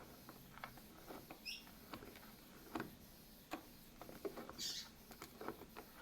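Faint, scattered clicks and taps of screws being worked loose from a washing machine's lid panel, with a brief squeak about one and a half seconds in and a short hiss near five seconds.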